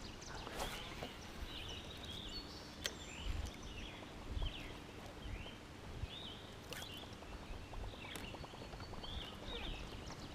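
Wild birds chirping and calling over and over, short quick notes, over a low rumble, with a few sharp clicks.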